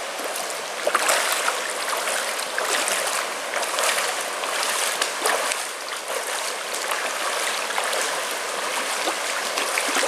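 Water of a rocky mountain stream rushing steadily, with scattered brief splashes.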